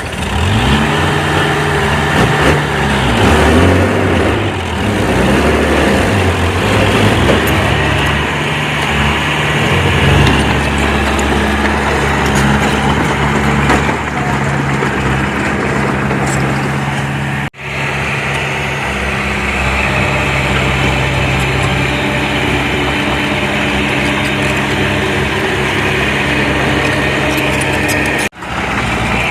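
Heavy diesel engine of earthmoving machinery running under load, its pitch rising and falling for the first ten seconds or so and then steadier. The sound cuts out sharply twice, for an instant each time.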